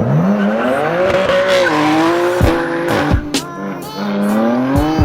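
A car engine accelerating hard, its pitch rising, holding, then dropping as it shifts up, and climbing again near the end, mixed with music that has a sharp beat.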